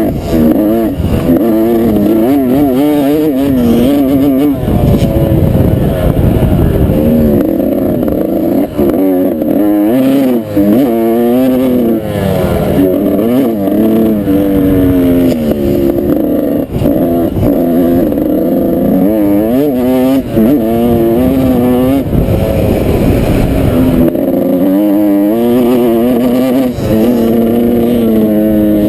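Dirt bike engine revving hard and easing off over and over, its pitch climbing and dropping every second or two, over a low rumble.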